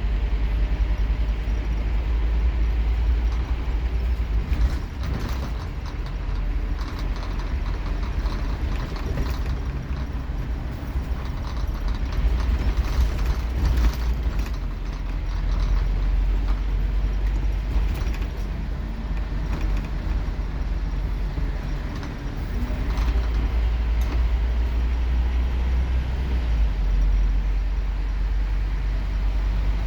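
Scania K230UB Omnilink single-decker bus heard from inside while driving: its engine makes a deep drone that eases off and picks up again several times as the load changes. Body panels and fittings rattle and creak over it.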